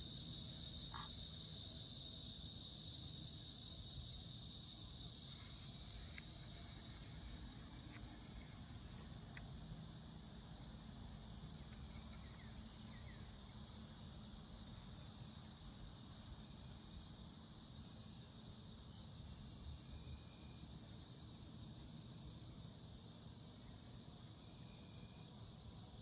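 A steady chorus of night insects: a high, continuous shrill trill that eases off somewhat over the first seven seconds and then holds. A low rumble runs underneath, with a single faint pop about nine seconds in.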